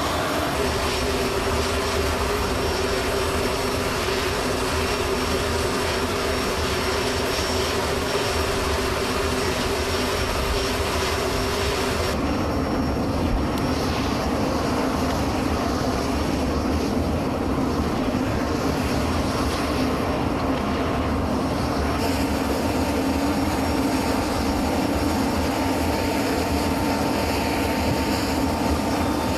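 Steady aircraft engine noise with a few constant tones underneath. The sound changes abruptly about twelve seconds in, losing its high hiss, and changes again about ten seconds later.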